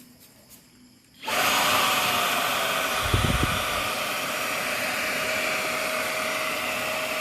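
Xiaomi Dreame V10 cordless handheld vacuum switching on about a second in and running steadily on its minimum power setting: a rush of air with a motor whine that settles to one pitch just after start-up. A brief low thump about three seconds in.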